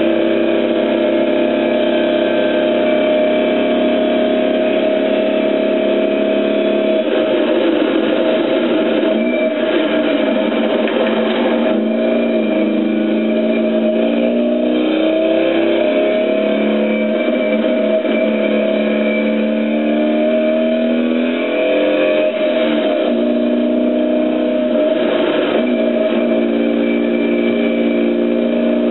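Competition car's engine heard from inside the cabin under hard driving. It holds steady at high revs for the first several seconds, then rises and falls in pitch again and again through gear changes and braking for the bends.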